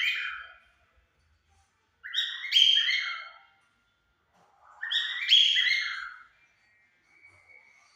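Cockatiels singing: whistled phrases of stepped notes, each about a second and a half long, repeated roughly every two and a half seconds, with a faint thin whistle near the end.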